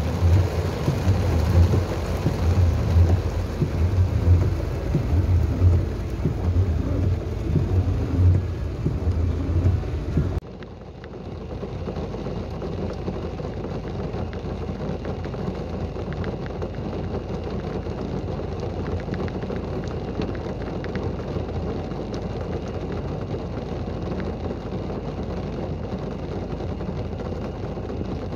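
Heavy rain pouring down in a steady hiss. For the first ten seconds loud low rumbling pulses run under it, then an abrupt cut leads to quieter, steadier rain.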